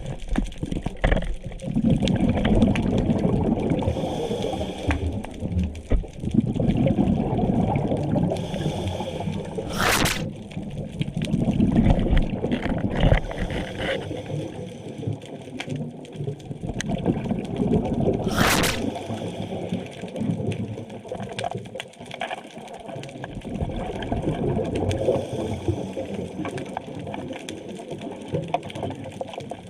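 Underwater bubbling and gurgling of a scuba diver's exhaled breath, coming in slow swells every few seconds, with two brief sharp clicks about ten seconds in and again near two-thirds of the way.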